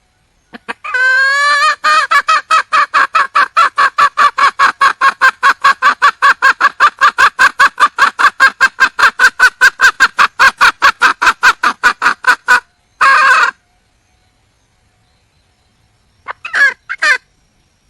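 Red junglefowl hen calling: a long, rapid run of short, evenly spaced clucks lasting about ten seconds. It is followed by one longer call and, near the end, two short ones. This is the hen's call to attract a male.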